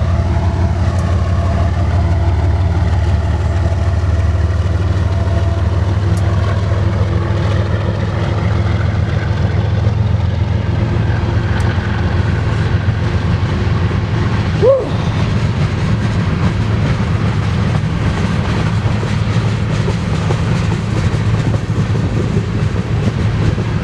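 Freight train of grain cars rolling past at speed: a steady, loud, heavy rumble of steel wheels on rail with a rapid, even clatter.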